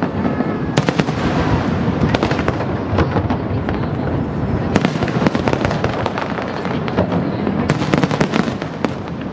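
Fireworks display: shells bursting in a continuous crackle with many sharp bangs, thickening into a rapid flurry of reports near the end.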